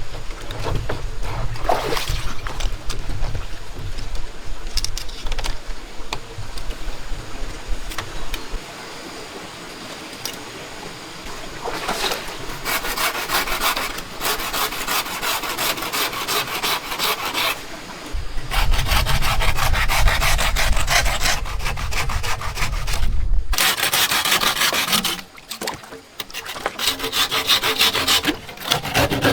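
Wood being cut or rasped by hand in long runs of quick, even back-and-forth strokes, with a low rumble coming and going underneath.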